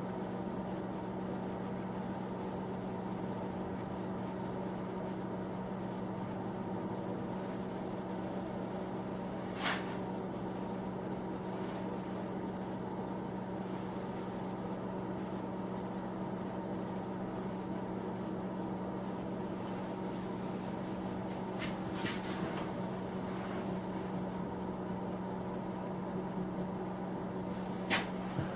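Steady hum of a small space heater running, with a few light clicks about a third of the way in, again past the middle and near the end.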